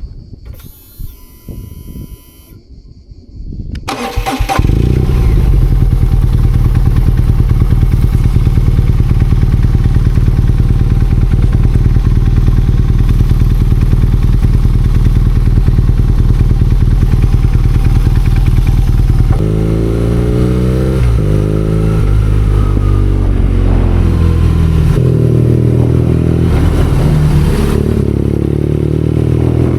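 BMW R nineT Scrambler's 1170 cc boxer twin starting up about four seconds in and idling steadily. From about twenty seconds in, the revs rise and fall in repeated sweeps as the bike pulls away through the gears.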